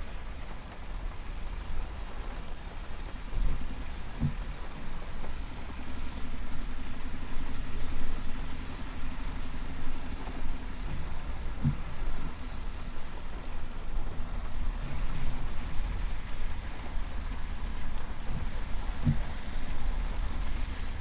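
Pickup truck driving on a wet, slushy road, heard from inside the cab: a steady low engine and road rumble with the hiss of tyres on slush. Three short low thumps come about seven seconds apart.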